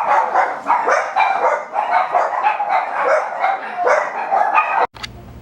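Coton de Tulear puppy barking repeatedly in quick, high yaps, several a second, cut off abruptly near the end.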